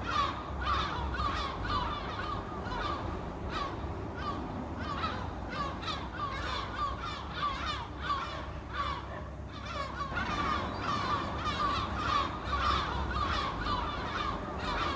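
A flock of seagulls calling, many short cries overlapping in quick succession.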